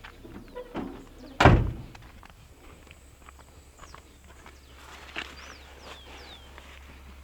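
A single heavy thunk about a second and a half in, with a few lighter knocks around it, over a steady low rumble; faint bird chirps follow later.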